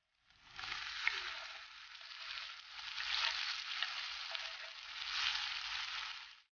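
Sliced onions, green chilli and curry leaves, then chopped tomatoes, sizzling in hot oil in a non-stick pan: a steady frying hiss with scattered small crackles that swells and eases a little, then cuts off abruptly near the end.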